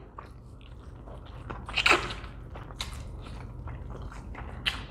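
Close-miked chewing and biting of rotisserie chicken: wet mouth clicks and smacks, with a louder bite about two seconds in and a sharp click near the end.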